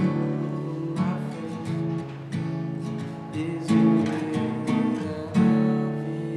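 Acoustic guitar strummed chords, with a fresh strum roughly every second and the chord changing every few strums, played without singing.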